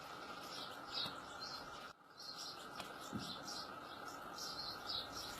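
European goldfinch chirping: short, high chirps repeated every half second or so over a steady background noise, with a brief dropout about two seconds in.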